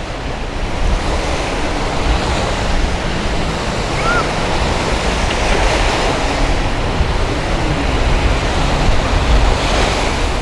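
Small waves breaking and washing up the beach, a steady surf noise, with breeze buffeting the microphone in a low rumble.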